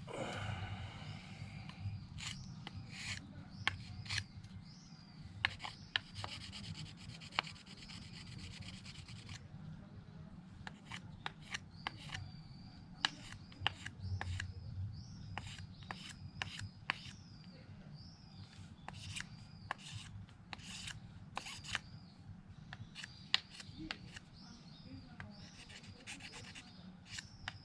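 Mora knife blade shaving thin curls down a stick of wood to make a feather stick: repeated short scraping strokes, about one a second, with sharp clicks as the blade catches and bites.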